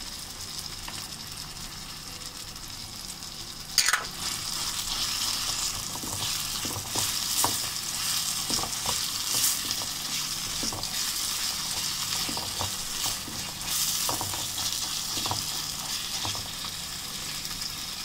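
Chicken mince sizzling in hot ghee in a small karahi while a wooden spatula stirs it, with short scrapes against the pan. A sharp knock about four seconds in.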